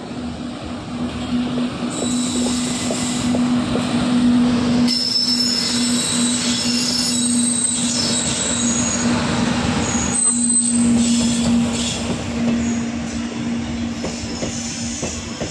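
Train passing close by at a level crossing: wheels clattering over the rails with a steady low hum underneath. High-pitched wheel squeal joins from about five seconds in and eases off near the end.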